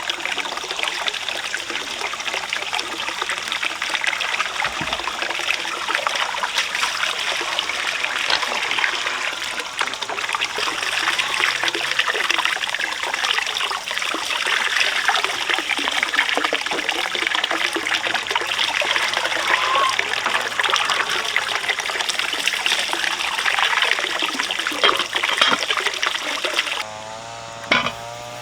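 Running water trickling and splashing steadily. It cuts off near the end, followed by a brief wavering pitched sound.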